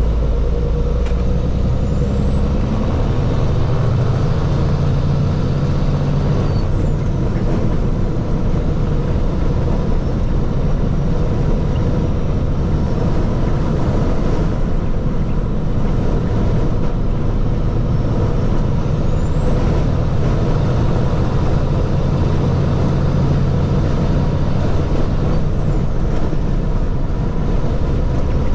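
Water truck's diesel engine running under way with a steady low rumble. Twice the engine note swells and a high whine rises, holds for a few seconds and falls away.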